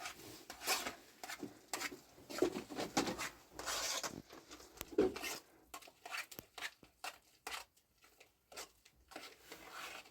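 Irregular rustling with light clicks and knocks: objects being handled in a small room.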